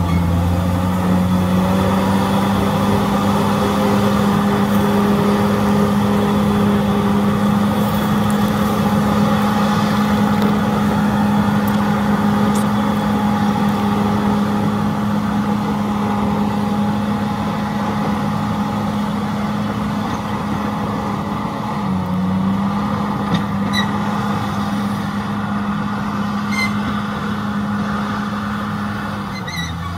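Heavy diesel engine of a crawler bulldozer running steadily under load, its pitch dipping briefly about two-thirds of the way through. A few short high squeaks come near the end.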